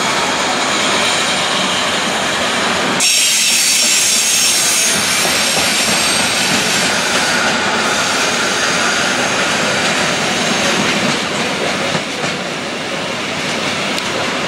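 Wagons of a long intermodal freight train carrying semi-trailers rolling steadily past on the rails, a continuous wheel-on-rail rumble. A sudden high-pitched hiss comes in about three seconds in and fades over the next few seconds.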